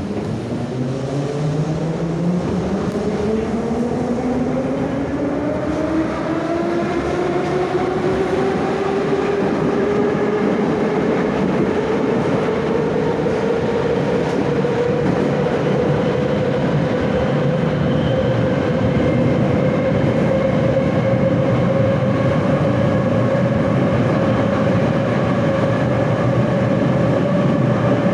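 81-717/714 'Nomernoy' metro train's traction motors whining as it accelerates away from a station: several tones rise steadily in pitch, then hold a steady pitch once cruising speed is reached about halfway through, over a constant rumble of wheels on rail.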